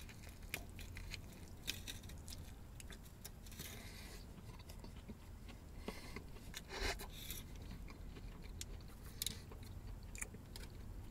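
A person chewing a mouthful of burger, with faint wet mouth clicks and smacks over a low steady hum, and a slightly louder bite or rustle about seven seconds in.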